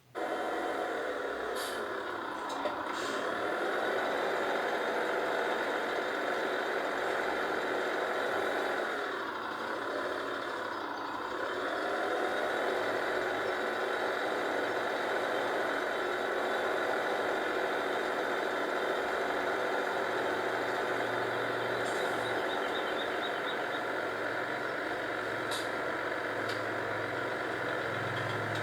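A large engine running steadily, its pitch dipping briefly as if under load about two seconds in and again around ten seconds in.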